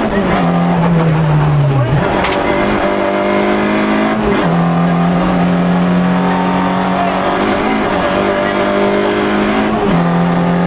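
Rally car engine at high revs heard from inside the cabin, its note falling as the driver comes off the throttle from about a quarter second in to about two seconds in, then held high and steady, with brief dips near four seconds and near the end.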